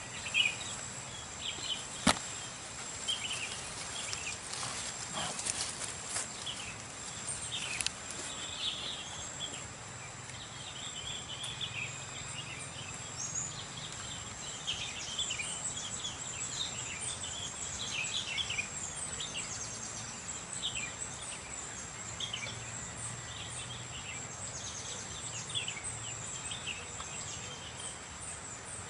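Outdoor ambience of a steady, high-pitched insect drone with many short bird chirps. A single sharp click comes about two seconds in.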